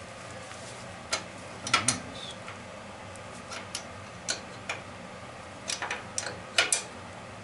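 Irregular sharp metallic clicks and taps, some in quick pairs and clusters, from hand tools working on steam boiler parts, over a low steady hum.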